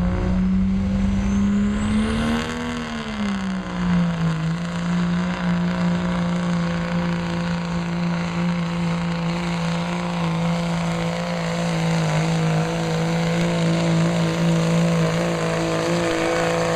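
Truck engine held at high revs under full load while it pulls a weight sled. The engine note rises and then dips about two to four seconds in, then holds steady with only small wavers.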